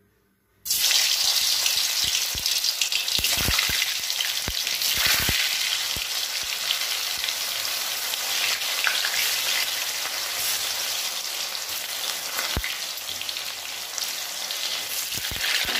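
Boiled, peeled potatoes frying in hot refined oil in a kadai. A loud sizzle starts suddenly about half a second in as the first potatoes go in and carries on steadily, with a few knocks as more potatoes drop into the pan.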